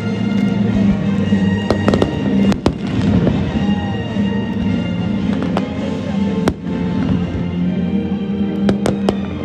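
Fireworks going off in a string of sharp bangs at irregular intervals, over music playing steadily underneath.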